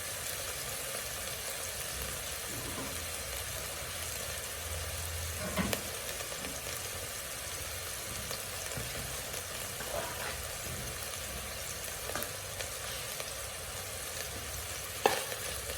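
Small pieces of diced beef sizzling steadily in hot sunflower oil in a saucepan, with a few brief knocks along the way.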